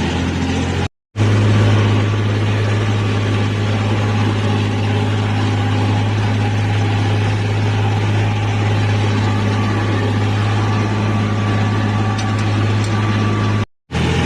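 Sonalika tractor's diesel engine running steadily at an even, deep hum. The sound cuts to silence briefly about a second in and again near the end.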